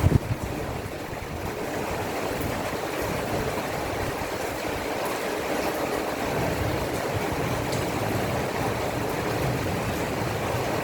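Heavy rain from a thunderstorm pouring down steadily, with a brief low rumble right at the start.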